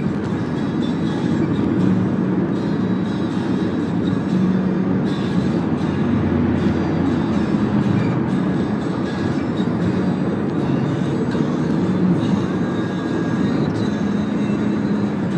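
Steady in-cabin road and engine noise from a Toyota Camry 2.4 driving along, a continuous low rumble with faint wavering low tones.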